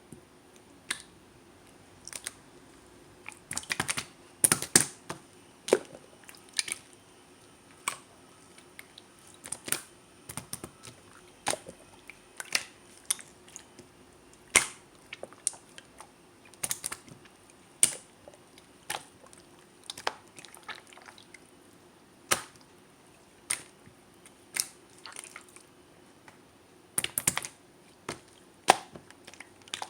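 Slime being squished and kneaded by hand, giving sticky clicks and small air-bubble pops at an uneven pace, about one or two a second with a few quick clusters.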